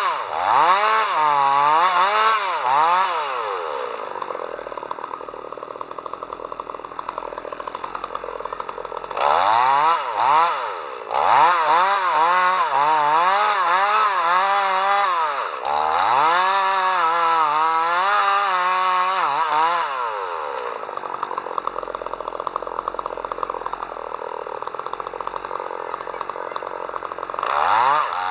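Chainsaw engine running, its pitch swinging up and down as it is throttled and loaded in the wood. It drops back to a lower, quieter idle about four seconds in and again about twenty seconds in, then revs up again near the end.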